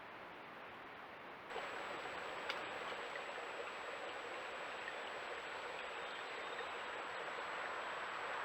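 Steady rush of flowing river water recorded by a trail camera. About one and a half seconds in the sound cuts abruptly to a louder stretch of the same water noise, with a thin, steady high-pitched tone running underneath it and a single click a second later.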